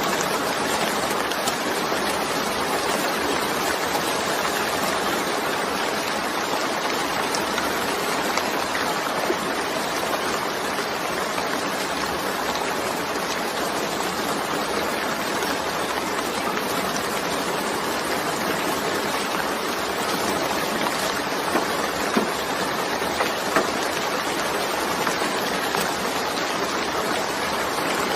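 Steady heavy rain falling, a dense even hiss with a few faint individual drop ticks near the end.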